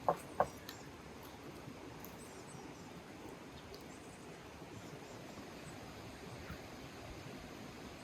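Two short, sharp clicks in the first half second, then a faint, steady outdoor background hiss.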